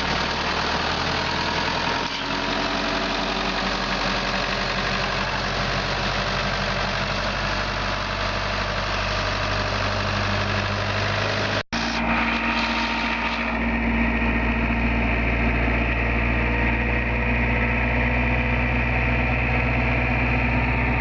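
An engine idling steadily. About halfway through, the sound breaks off abruptly and picks up again as a deeper, steadier engine hum.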